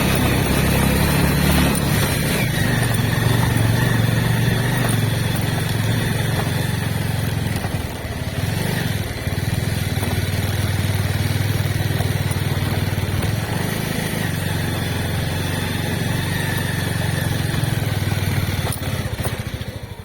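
Vehicle engine running steadily, with a brief dip in level about eight seconds in.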